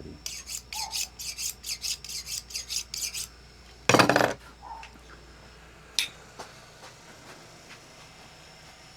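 Knife being sharpened in quick rasping strokes, about four a second, for around three seconds. Then a loud clatter comes about four seconds in, and a single sharp click near six seconds.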